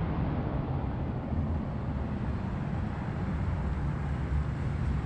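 Steady street traffic rumble, with a low wind rumble on the microphone.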